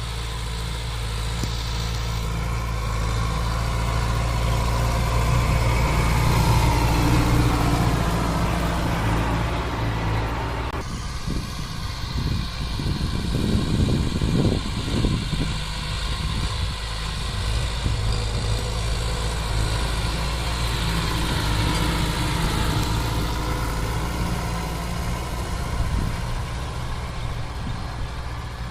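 Kubota MU 4501 tractor's four-cylinder diesel engine running at a steady speed. About eleven seconds in the sound changes abruptly, with a few seconds of rougher low rumbling before it settles again.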